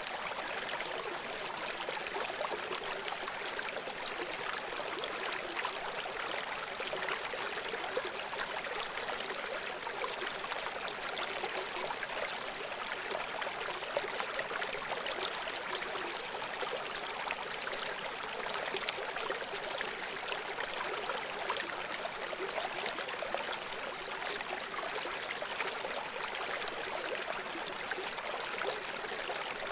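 A small stream running steadily over stones, a constant babble and trickle of water.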